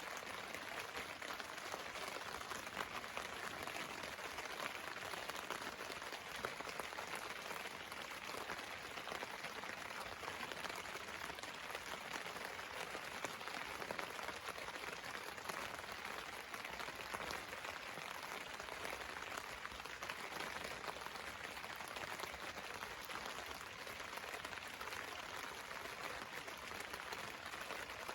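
Steady rain pattering on a tarp overhead, a dense, even hiss of drops.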